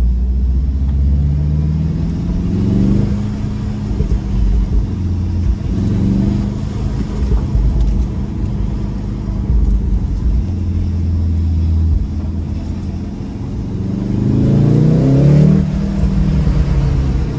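Volkswagen Golf 7 R's turbocharged 2.0-litre four-cylinder engine, heard from inside the cabin, pulling through the gears of its DSG gearbox. The engine note rises and then drops at each upshift, about three seconds in and again around six seconds. A harder pull near the end climbs higher before the next shift, all over a steady low road rumble.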